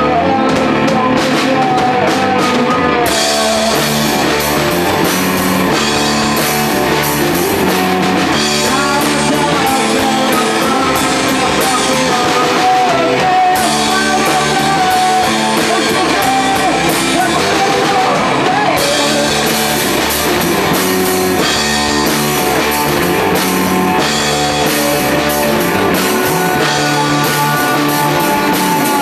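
Rock band playing live psychedelic rock: electric guitar over bass and drum kit. Heavy cymbal wash comes in about three seconds in, drops out midway and returns.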